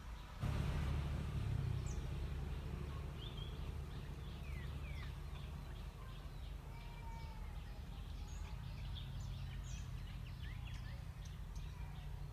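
Small birds chirping and twittering, with many short high chirps and a longer whistled call in the middle, over a steady low rumble that starts about half a second in.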